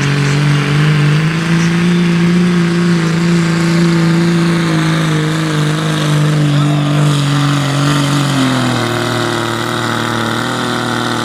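Pulling truck's engine running hard at high, steady revs while dragging the weight-transfer sled down the track. Its pitch steps down about eight seconds in.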